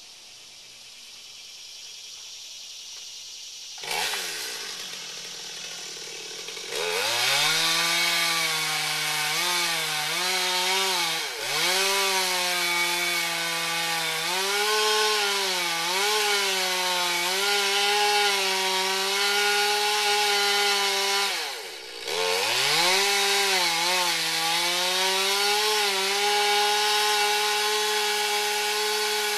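A two-stroke chainsaw comes in about four seconds in and from about seven seconds runs at high revs. Its pitch wavers and sags as the chain loads in the wood, and twice it drops sharply and climbs back.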